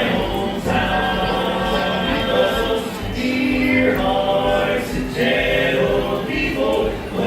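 Barbershop quartet singing a cappella in close harmony, holding long chords.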